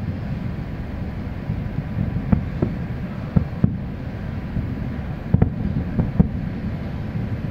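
Distant fireworks bursting as a series of dull, low thumps at irregular intervals from about two seconds in, over a steady low rumble of wind on the microphone.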